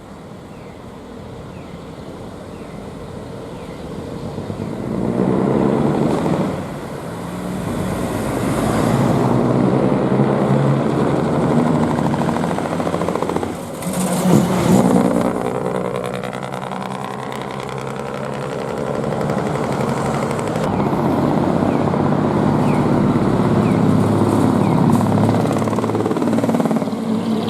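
Dekotora truck with a split exhaust manifold (mani-wari) and a vertical chimney-stack muffler, its diesel engine running with a loud, open exhaust note as it drives by. The sound swells about four seconds in and stays loud, easing off briefly twice.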